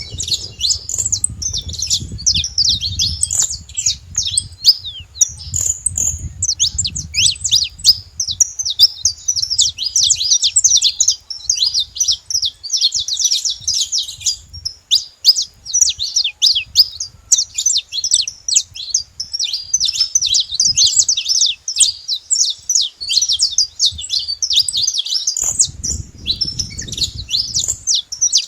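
Saffron finch (canário-da-terra) singing: a dense, continuous stream of rapid high chirps and short trills.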